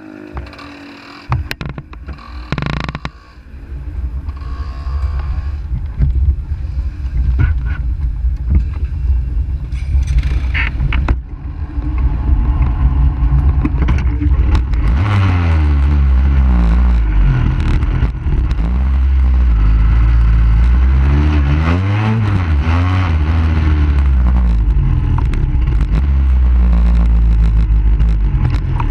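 Motorcycle engine running while the bike is ridden off at low speed, its pitch rising and falling over and over. A few knocks and handling clatter come in the first seconds.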